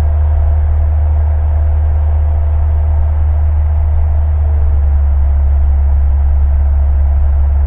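Single-engine Cessna's piston engine and propeller droning steadily in the cockpit, as heard over the headset intercom, growing slightly louder about halfway through.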